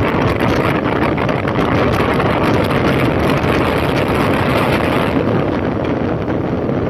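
A 2005 Honda CB1300's inline-four engine running steadily as the motorcycle is ridden, with wind buffeting the microphone.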